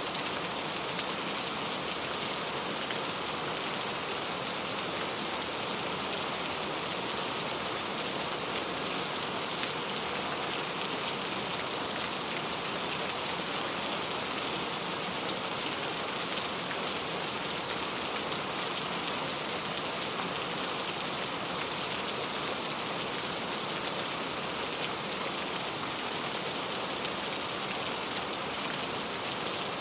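Steady rain falling, a dense even hiss of drops pattering on a surface, with no thunder or wind gusts.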